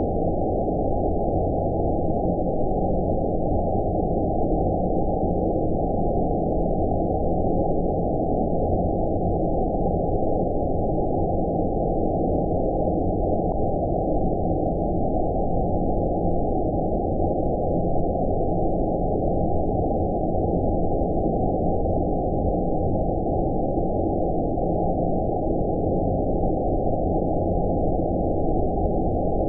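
Steady, deep rushing noise with all the highs filtered out, the low rumbling 'space noise' sold as a white-noise sleep sound. It holds an unchanging level throughout.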